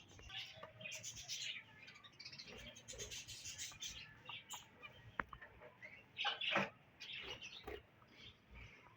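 Small birds chirping in many short, scattered, high calls.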